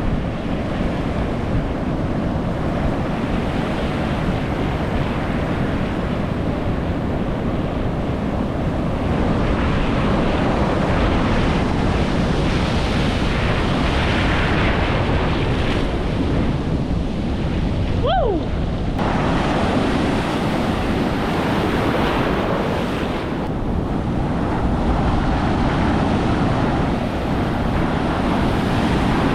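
Strong ocean surf, heavy waves breaking and washing as white water over a rocky shore in a continuous rush that swells and eases, with wind buffeting the microphone. A brief thin gliding tone cuts in about two-thirds of the way through.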